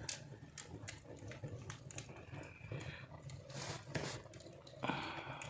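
Wood fire crackling in a fireplace: scattered sharp pops and clicks over a low hum, with a louder noisy patch near the end.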